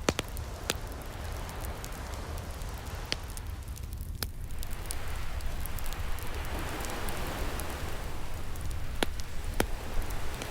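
Wood fire crackling with scattered sharp pops, over the wash of ocean waves that swells up in the middle and draws back near the end.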